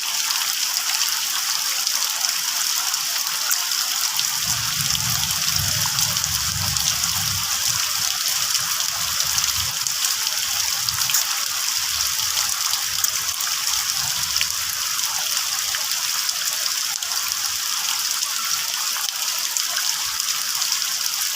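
Steady rain falling, an even hiss. A low rumble comes and goes underneath from about four to fifteen seconds in.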